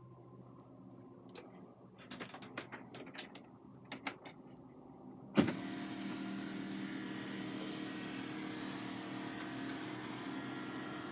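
Several light clicks and knocks, then one sharp knock about halfway through, after which a steady mechanical hum runs on.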